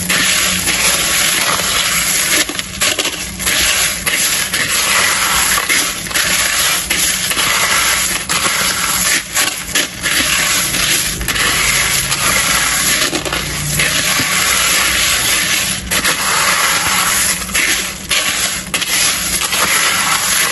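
Cornflakes being stirred and tossed in a bowl: a continuous crunching rustle full of small crackles.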